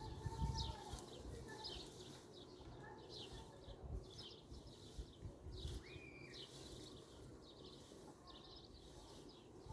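Faint chirping of small birds: short high calls repeating every half second or so, over a low background rumble.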